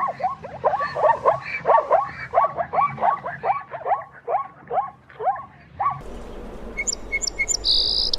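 A dog barking in a fast, steady run of about three barks a second. About six seconds in it cuts to small birds chirping.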